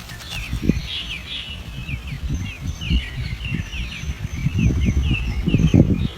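Birds chirping: a steady stream of short, quick, falling chirps, over low rumbling noise in bursts that grows loudest near the end.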